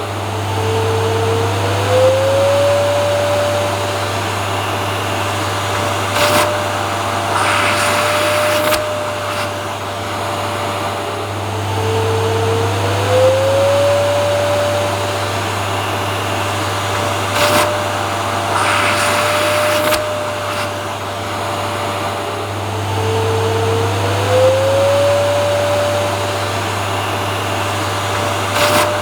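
Vacuum cleaner running continuously with a steady motor hum. Its whine slides up in pitch about every eleven seconds, and short, louder rushes of noise come now and then.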